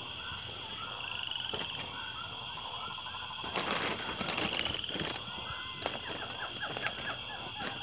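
A chorus of short, repeated animal calls over a steady high-pitched whine, with a few scattered clicks.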